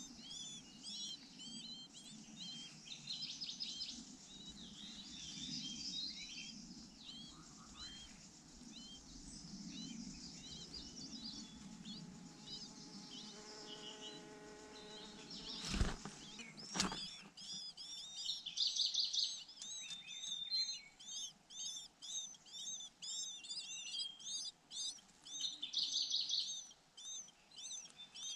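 Pancawarna birds chirping: a fast, continuous run of short high chirps, like a chick begging while a parent feeds it. The chirps come thicker in the second half. Two sharp knocks sound about halfway through.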